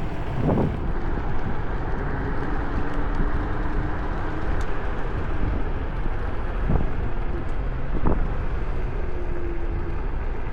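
Wind rushing over the microphone and tyre noise from a moving electric scooter, with a faint whine from its hub motor. A few short knocks come from bumps in the path, about half a second, seven and eight seconds in.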